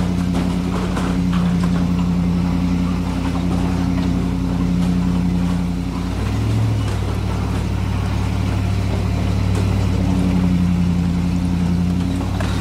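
Land Rover 4x4's engine running under load as it climbs a dirt and rock trail: a steady drone that drops to a lower pitch about six seconds in and rises again near ten seconds.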